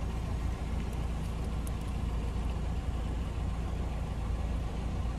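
Steady low rumble of a car engine idling, heard from inside the car.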